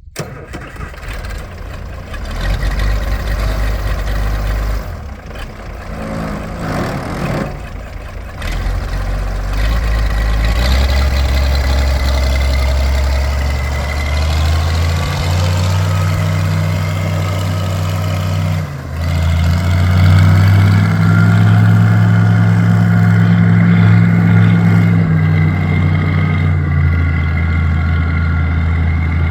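1966 Oliver 1650 tractor's diesel engine running, at a lower, uneven speed at first. Its speed is raised in steps about ten seconds in, again around fifteen seconds and once more near twenty seconds, with a brief dip just before the last rise.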